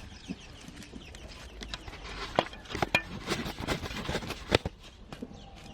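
Hen and chicks: a quick, irregular run of light taps and clicks, busiest in the middle, with faint short peeps.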